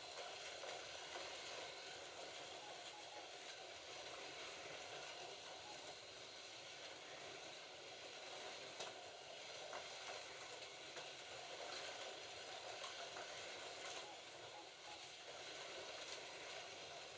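Slot.it slot cars lapping a plastic track: a steady whirring hiss of their small electric motors, gears and tyres, with a faint click now and then.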